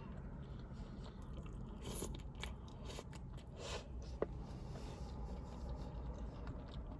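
A person chewing food close to the microphone, with a few soft wet mouth clicks.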